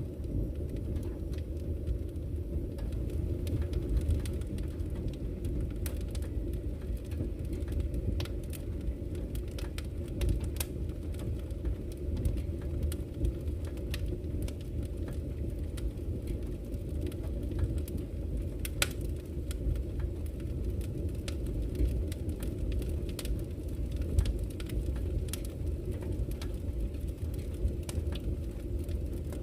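Campfire crackling, with irregular sharp pops and snaps over the steady low rush of flowing river water.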